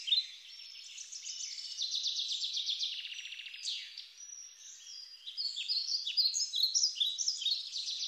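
Forest birds calling: many overlapping high, rapid chirps and trills, dipping briefly about four seconds in before picking up again.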